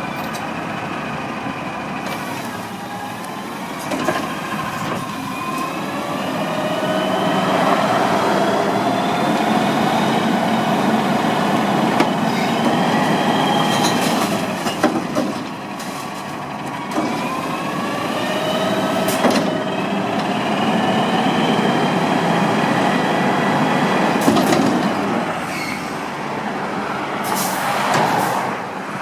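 Garbage truck's diesel engine revving, its pitch rising slowly and dropping back several times, with scattered metallic clanks and squeaks.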